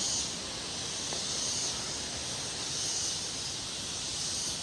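Chorus of cicadas in the trees, a high shrill drone that swells and fades about every one and a half seconds over a steady lower hiss.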